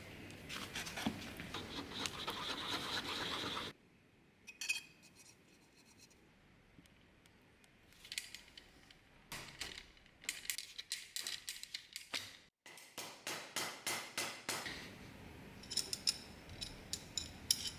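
Hand scraping and rubbing on a workpiece in several short cut-together takes. First comes a continuous rasping rub, then rows of short strokes at about three a second.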